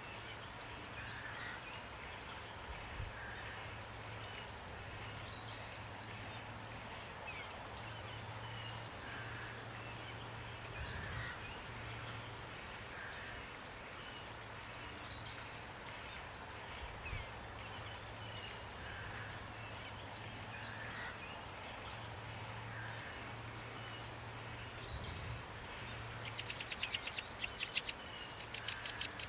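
Several wild birds chirping and singing in quick, high, down-sweeping notes over a steady hiss of rain, with a softer, lower call repeating about every two seconds. Near the end a rapid rattling trill comes in, the loudest sound.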